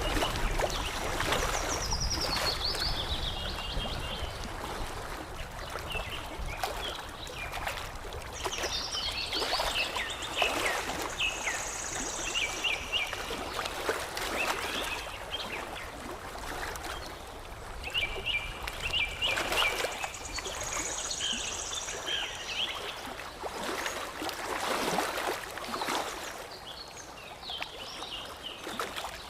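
Songbirds chirping and trilling over the steady sound of lapping, trickling water. The song comes in recurring phrases, each a run of quick chirps falling in pitch, with a thin high whistle twice.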